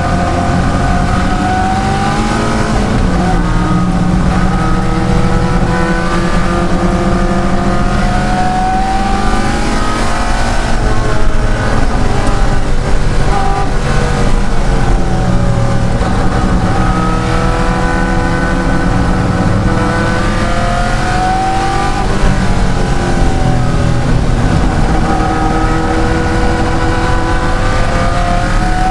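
De Tomaso Pantera's Ford V8 racing under hard acceleration. The engine note climbs in pitch again and again, dropping at each gear change, falling away for braking about ten seconds in and again past twenty seconds, then pulling up once more.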